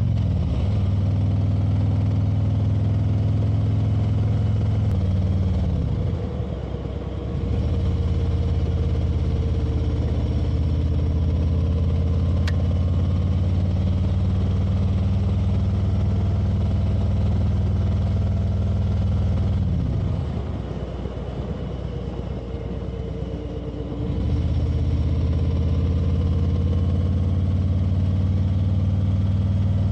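Motorcycle engine running steadily while riding. The engine note falls and quietens twice, about six and twenty seconds in, then comes back up to a steady run.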